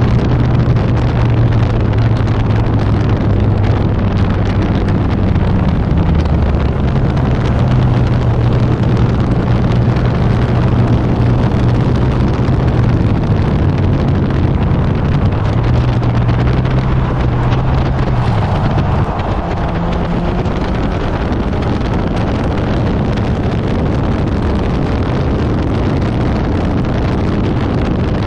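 Infiniti G37S's 3.7-litre V6 running hard on track, its note stepping up and down in pitch with throttle and gear changes, under heavy wind and road noise. About two-thirds of the way through the engine note drops away and only the wind and road noise go on, as the car comes off the throttle.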